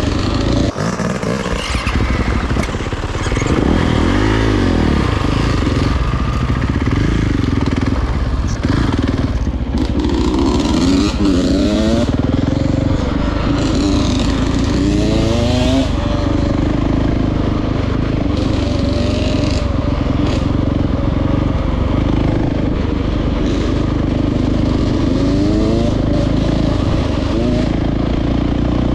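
Dirt bike engine running hard on a trail, its pitch climbing in repeated rising pulls as the throttle is opened again and again.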